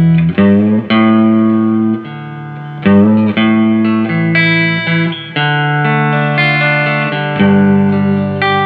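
Electric guitar played through a Fender Hot Rod Deluxe tube combo amp, with sustained single notes and short phrases, including string bends about half a second and three seconds in. The amp is working cleanly after a shorted 6L6 power tube was found; it has been refitted with a new 6L6GC pair and recapped.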